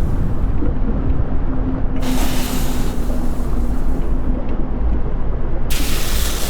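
Volcanic eruption: a deep, continuous rumble with a hiss over it, the hiss changing abruptly about two seconds in and again near the end.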